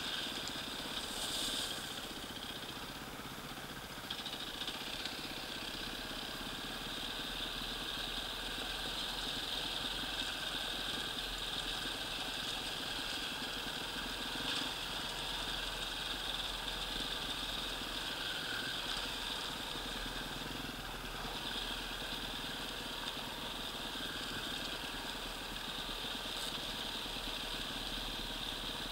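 Enduro dirt bike's engine running steadily while the bike rides down a loose gravel track.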